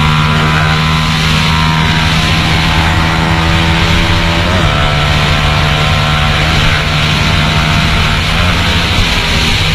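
150 cc single-cylinder sport motorcycle engine running hard at high revs and nearly constant pitch, with a brief dip in pitch about four and a half seconds in, as of a gear change. Heavy wind hiss on the microphone at speed.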